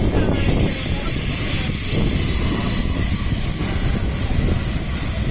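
Freight train wagons rolling past close by: a steady, loud rumble of wheels on the rails with a high hiss over it.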